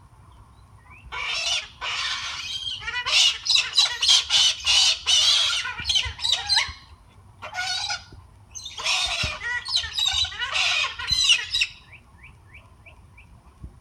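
Pet parrots squawking back and forth: loud, harsh calls in a long run from about a second in, a short pause, then a second run, ending with a few faint short chirps.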